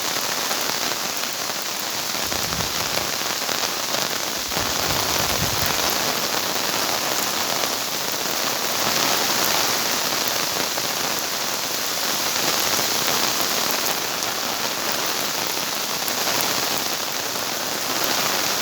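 Steady rain falling and pattering on surfaces, with two brief low rumbles a few seconds in.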